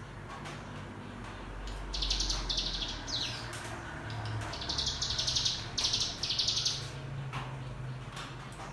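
Bar-winged prinia giving rapid, buzzing trills (the 'ngebren' song) in short bursts: a pair about two seconds in and a run of four from about five seconds, with a brief falling note between. A low hum runs underneath.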